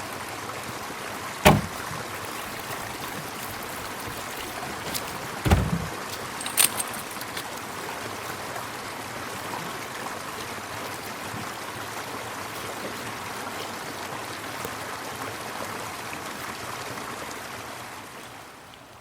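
Steady rushing of a glacial meltwater river. Two loud knocks, about a second and a half and five and a half seconds in, stand out above it, followed by a sharp click a second later. The rushing fades near the end.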